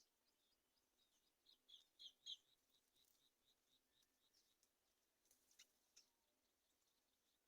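Faint, high-pitched bird chirps in a fast, even series of about five a second, with a few louder chirps about two seconds in and a couple of short sharp ticks near six seconds.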